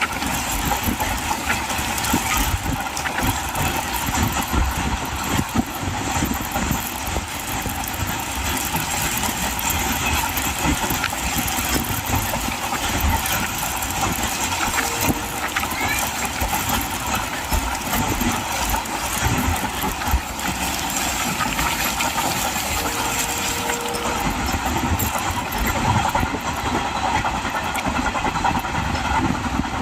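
Train running: a steady rumble with constant rattling and clatter.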